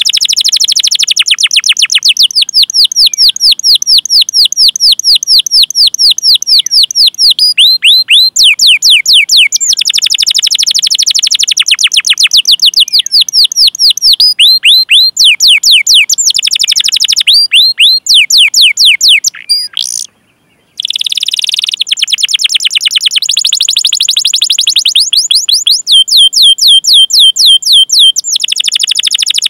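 Domestic canary singing: long, fast runs of high, down-sweeping 'cuit cuit' chirps, several a second, alternating with denser rolling trills. The song breaks off for under a second about two-thirds of the way through, then carries on.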